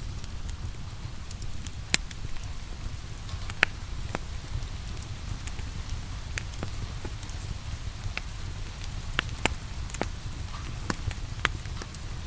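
Wood fire crackling, with sharp pops scattered through, the loudest about two seconds in, over a steady hiss of rain and a low rumble.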